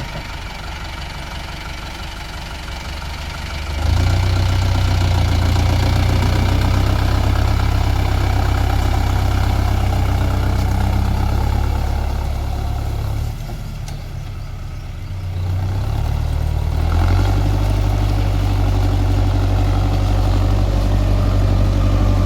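Mahindra tractor's diesel engine running low at first, then revving up hard about four seconds in, easing back for a few seconds near the middle, and revving up hard again from about seventeen seconds on.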